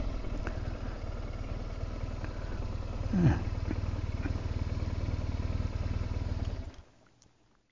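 BMW R1200GS Adventure boxer-twin motorcycle engine running steadily at low revs, dying away near the end. About three seconds in, a short call falls in pitch over it.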